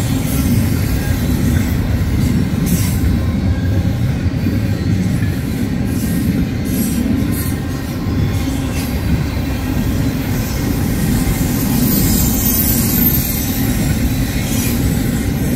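Double-stack intermodal container train rolling past on well cars: a steady low rumble of steel wheels on rail, broken by scattered sharp clicks and a thin high wheel squeal late on.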